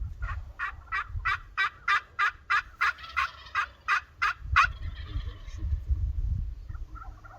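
Turkey yelping: a run of about fourteen evenly spaced sharp notes, about three a second, that stops a little under five seconds in.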